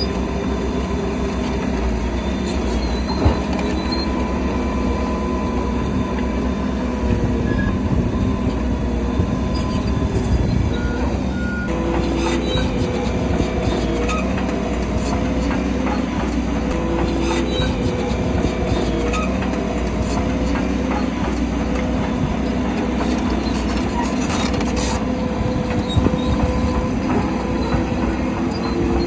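Shantui crawler bulldozer working: the diesel engine runs steadily while the steel tracks clank and squeal.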